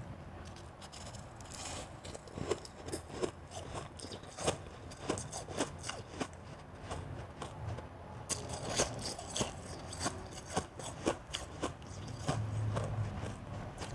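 Close-miked chewing of shaved and blended ice: a run of irregular crisp crunches and crackles, with a couple of short scraping stretches.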